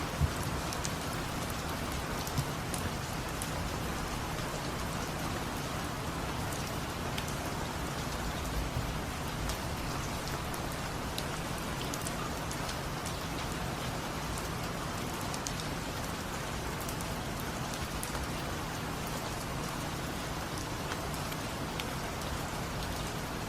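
Steady rain falling, an even hiss with scattered individual drops ticking on a surface, and a couple of sharper taps in the first few seconds.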